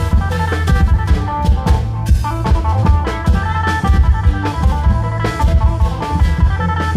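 Isan klong yao long-drum band playing loud, fast music: a dense drum beat with sharp strokes, under a line of held melodic notes.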